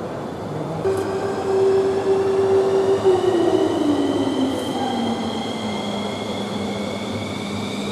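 F-15's F100 turbofan engine running during a ground run. It grows louder about a second in, then its high whine climbs steadily in pitch while a lower hum slides down.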